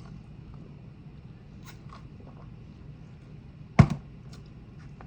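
Close-miked eating sounds: faint chewing and small mouth clicks, with one sudden loud knock a little under four seconds in.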